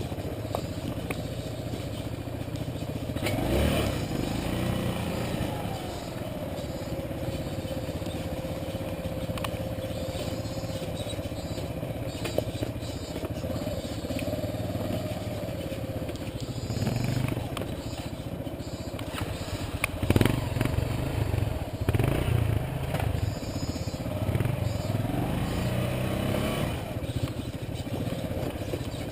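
Motorcycle engine running under way, its revs rising and falling. A couple of sharp knocks break in, the loudest about twenty seconds in.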